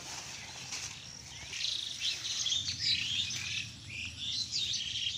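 Small birds chirping, many short high calls one after another and overlapping.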